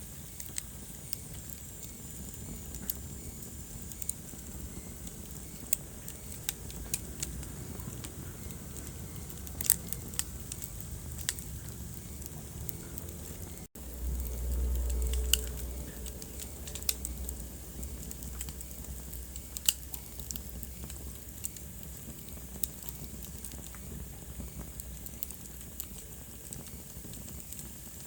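Wood fire crackling in a fireplace: a steady hiss with frequent sharp pops and snaps. Just past the middle the sound drops out for an instant, then a low rumble swells for about two seconds.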